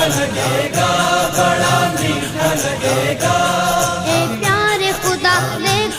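Naat: layered voices chanting a sustained devotional melody in repeating phrases. A wavering, ornamented solo vocal line comes in about four seconds in.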